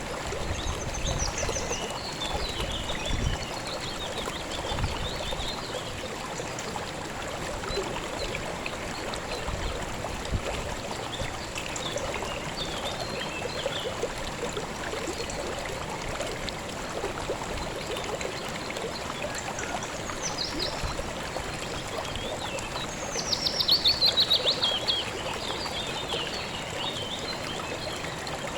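A river flowing steadily, with birds chirping here and there over the water. Near the end a bird gives a loud, rapid trill of repeated notes falling in pitch, the loudest sound.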